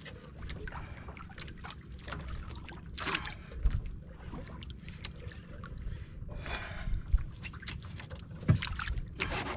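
Wind buffeting the microphone over water lapping at a small boat's hull, with a few louder splashes about three, six and a half and nine seconds in.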